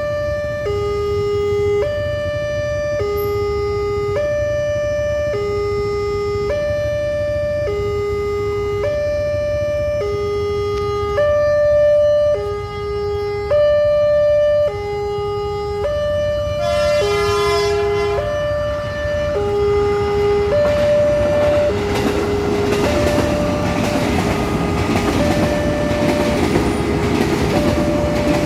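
Railway level crossing warning alarm sounding a steady two-tone signal, switching between a lower and a higher pitch about every three-quarters of a second, warning that a train is coming. About seventeen seconds in a train horn blasts briefly, and in the last third a passing train's rumble and rush grow under the alarm.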